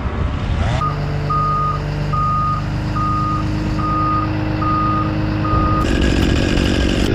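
Reversing alarm of a Caterpillar machine backing up to pull the tree over on a rope: a steady single-tone beep repeating about seven times, a little over once a second, over the machine's running engine. The beeping stops near the end as a louder, rougher engine-like noise takes over.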